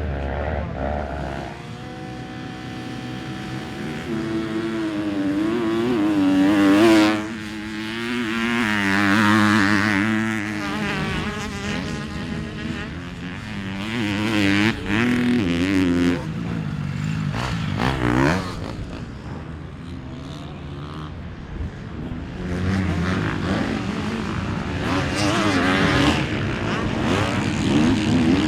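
Motocross dirt bike engines revving hard and backing off again and again as riders ride the track, pitch sweeping up and down through the gears. Loudest about seven seconds in, then the sound drops off suddenly.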